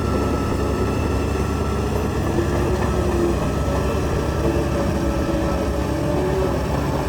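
Heavy diesel earthmoving machinery running steadily, with a low engine rumble and a wavering whine over it.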